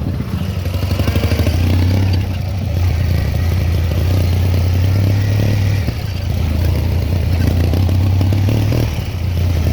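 Ural motorcycle's flat-twin engine running steadily, its level dipping briefly a couple of times.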